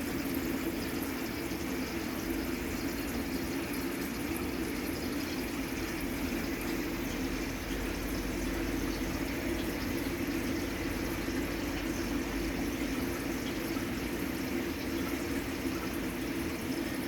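Aquarium water circulating: a steady, unbroken trickle and bubbling from the tank's filtration.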